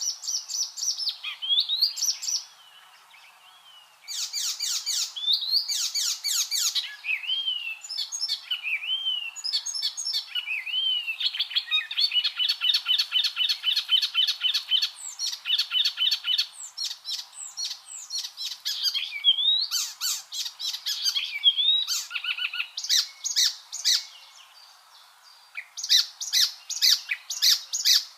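Icterine warbler singing: a fast, varied song of whistled slurs, chattering trills and runs of rapidly repeated notes, broken by two short pauses, one near the start and one near the end.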